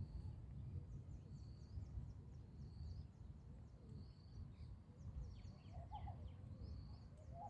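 Songbirds chirping faintly: many short, high chirps repeated throughout, over a steady low rumble. A lower bird call sounds about six seconds in and again near the end.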